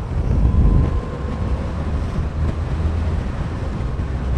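Motorcycle running on the move: a steady low engine rumble mixed with wind noise on the microphone.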